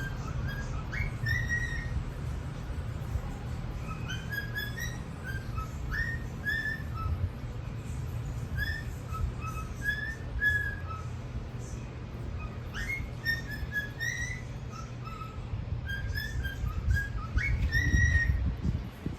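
Pacific parrotlets making short whistled chirps, many of them rising in pitch, in an irregular string over a low steady rumble.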